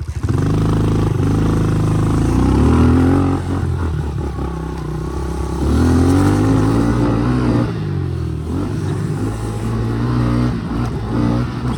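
Honda CRF110 dirt bike engine revving and pulling through the gears as the bikes ride off, the pitch climbing and dropping in two surges, about two seconds in and again around six seconds in.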